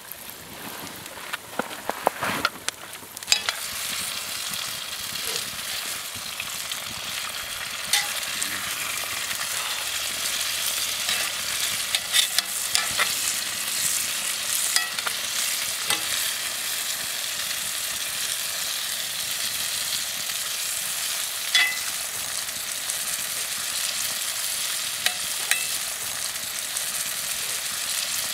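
Food frying in olive oil in a cast iron skillet over a campfire: a steady sizzling hiss with scattered pops and crackles, growing louder about three seconds in.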